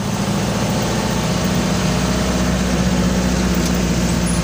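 Vehicle engine running steadily under road noise, heard from inside the cab while driving; a constant low hum.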